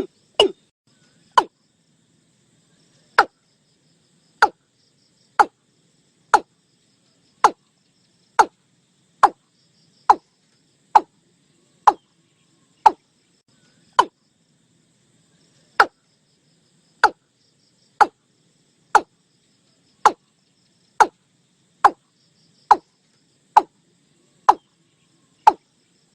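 Watercock calling: a steady series of short, sharp notes, about one a second.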